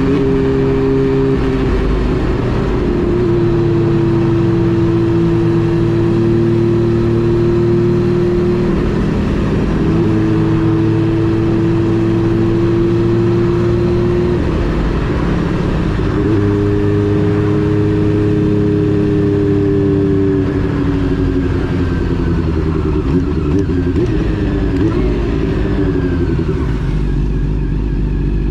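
Honda CB400 Super Four Revo (NC42) inline-four engine under way, its note holding steady, dropping off and picking up again a couple of times, then falling away over the last several seconds as the bike slows.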